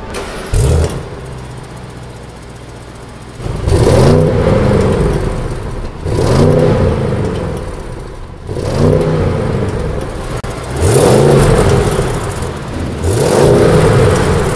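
2022 Audi S8's 4.0-litre twin-turbo V8 revving while the car stands still: one short blip about half a second in and a brief idle, then five revs roughly every two seconds, each rising and falling back to idle.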